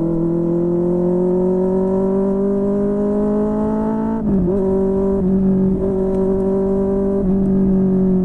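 QJMotor SRK600's inline-four engine through a Yoshimura R11 exhaust, its pitch rising slowly for about four seconds, dipping briefly and recovering, then holding steady.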